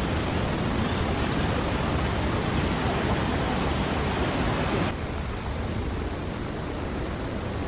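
Steady rush of water falling at Naena Falls. About five seconds in it changes suddenly to a quieter, duller rush.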